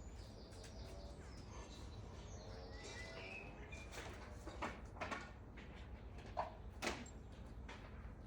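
Quiet outdoor background with a low steady rumble and a few faint bird chirps about three seconds in, then several sharp knocks in the second half.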